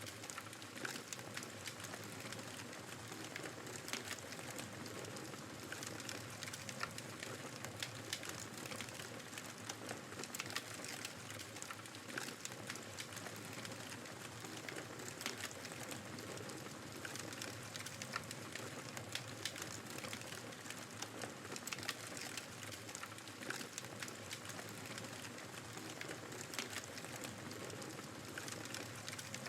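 Wood fire crackling in a fireplace, with frequent small pops and snaps, over the steady wind noise of a snowstorm.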